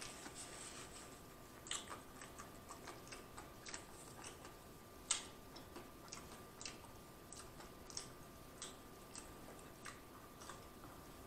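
Close-up chewing of a mouthful of Big Mac: soft, irregular wet mouth clicks and lip smacks about twice a second, one louder smack about five seconds in.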